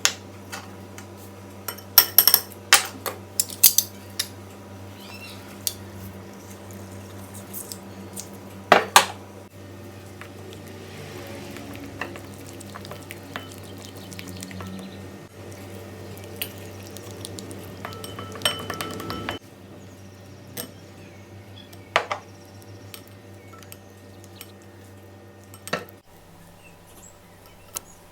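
Kitchen utensils clinking and knocking against dishes and pans in scattered strokes, over a steady low hum that stops near the end.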